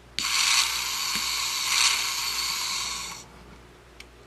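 Rod Torque Redline Lights & Sounds toy car playing one of its built-in sound effects through its tiny speaker: a harsh, steady mechanical noise with no bass, lasting about three seconds before cutting off.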